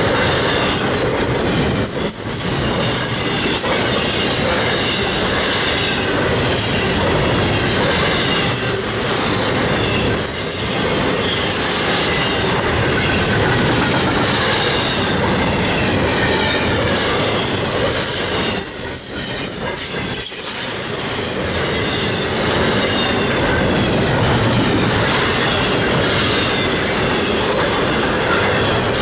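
Norfolk Southern double-stack intermodal freight train passing at close range: a steady, loud rush of steel wheels running on the rails, dipping briefly a few times.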